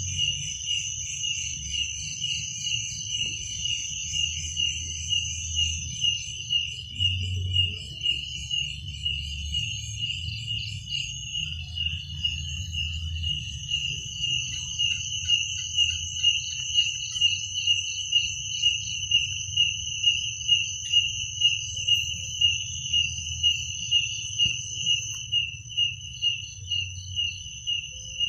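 Crickets chirping at night: a pulsed chirp repeating about twice a second over a steady, higher continuous insect trill, with a low rumble underneath.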